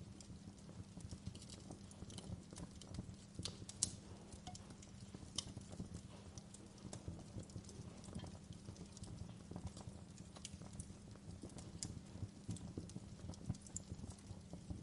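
Log fire burning in a fireplace, crackling and popping irregularly over a low steady rumble of flame; a sharp pop about four seconds in is the loudest.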